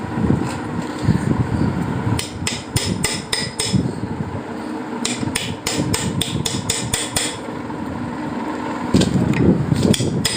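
Small hammer tapping on the steel parts of a 3-jaw lathe chuck during reassembly, in quick runs of sharp metallic taps, about four a second. There are three runs: a little after two seconds in, around the middle, and again near the end.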